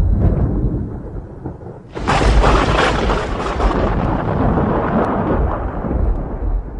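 Thunder: a low rumble dying away, then about two seconds in a sudden sharp crack of close thunder that rolls on into a long rumble, fading slowly.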